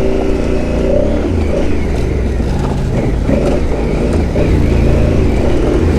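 Adventure motorcycle engine running under varying throttle while riding a rough off-road trail, with a steady low rumble throughout.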